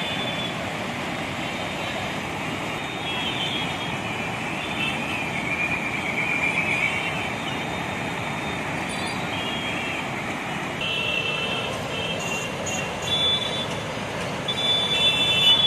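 Steady rush of the Banas River in flood, with high vehicle-horn tones sounding over it now and then, more often near the end.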